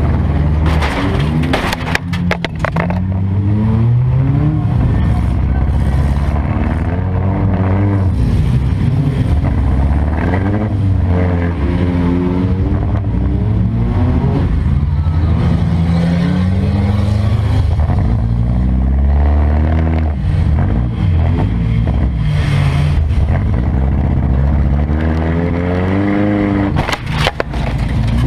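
Demolition derby car's engine revving up and down over and over, heard from inside the stripped cabin, with bursts of sharp metal clatter from collisions near the start and again near the end.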